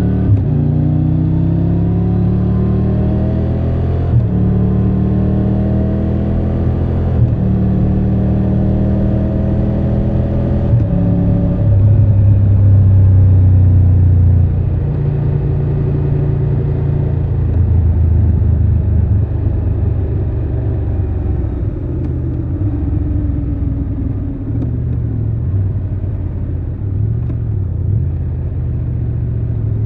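Triumph Tiger 1200 Rally Pro's three-cylinder engine pulling hard through the gears, its pitch climbing and dropping back at upshifts about 4, 7 and 11 seconds in. It then settles to a steadier, louder drone and slowly falls in pitch as the bike eases off.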